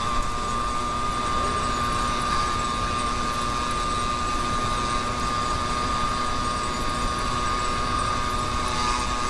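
YD100 two-stroke motorized-bicycle engine running at a steady speed, its pitch holding constant.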